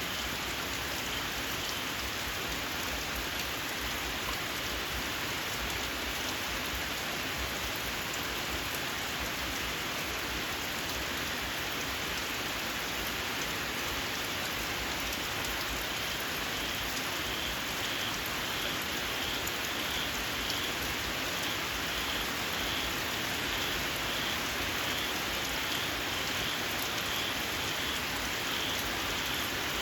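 Steady rain falling on open fields. From about halfway through, a small frog joins in with a high, shrill chirp repeated about one and a half times a second.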